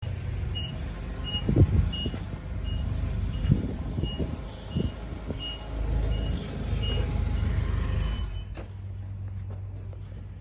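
A vehicle's reversing alarm beeping at a steady pitch, about one and a half beeps a second, over a low engine rumble. Near the end the beeps give way to one longer tone that cuts off with a click, and the rumble drops to a quieter hum.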